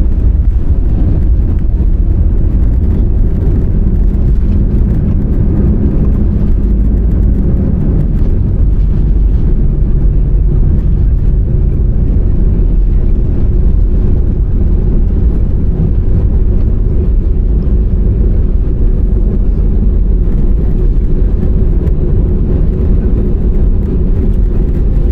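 Cabin noise inside an Airbus A320-200 heard from a window seat: a loud, steady low rumble of the engines and airflow, with an engine hum that steps down slightly in pitch about a third of the way through.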